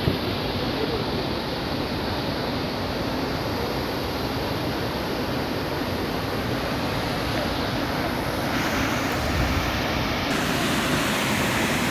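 Nabuyole Falls' water rushing in a steady wash of noise, turning brighter and more hissing about two-thirds of the way through.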